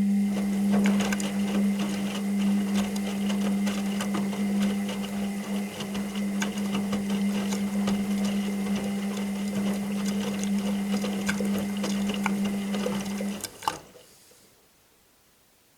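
Washing machine running: a steady motor hum with a dense scatter of clicks and knocks from the turning drum and load. It stops abruptly about fourteen seconds in, the pause of a wash cycle between drum turns.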